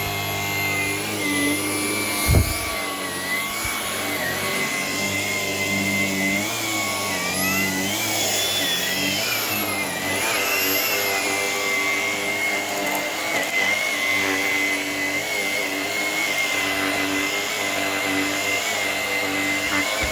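Shark Power Detect IP1251 cordless stick vacuum running steadily on carpet, its motor whining. The whine rises in pitch and falls back once about midway, and there is a single thump about two seconds in.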